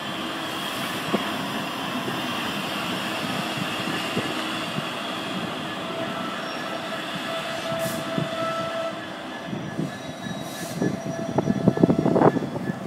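Freight train behind an EWS Class 66 diesel locomotive rolling through the station: a steady rumble of wagons with thin wheel squeal, and a run of sharp clattering knocks near the end.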